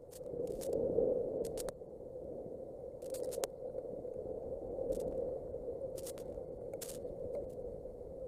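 Thunderstorm wind and heavy rain on an outdoor nest camera's microphone: a steady rushing noise with scattered sharp clicks and crackles at irregular intervals, loudest about a second in.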